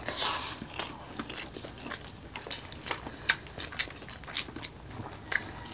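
A person chewing and biting food close to the microphone: a run of irregular, crisp crunches and mouth clicks.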